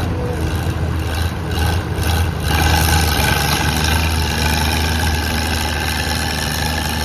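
Oliver 77 tractor's six-cylinder engine running hard under load as it pulls a weight-transfer sled down the track. The steady engine note is rougher for the first couple of seconds.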